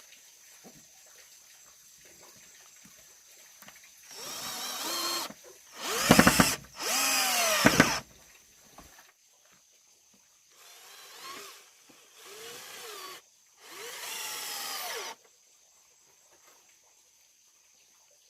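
A handheld power tool run in about six short bursts, each speeding up and winding down again, with the two bursts in the middle the loudest.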